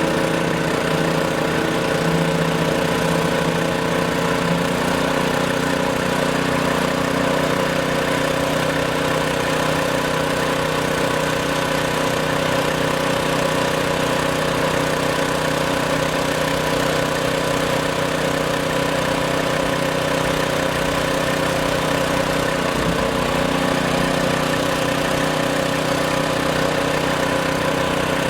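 A heavy-equipment engine idling steadily, its hum holding an even pitch, with a slight change in tone about 23 seconds in.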